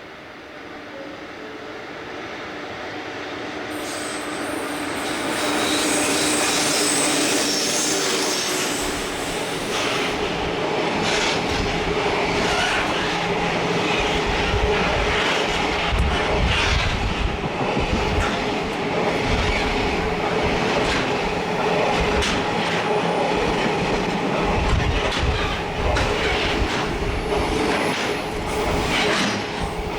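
Freight train hauled by a JR EF81 electric locomotive passing through a station: the sound grows louder over the first six seconds as it approaches, then the long string of freight wagons goes by with steady clickety-clack of wheels over rail joints and a continuous rolling rumble.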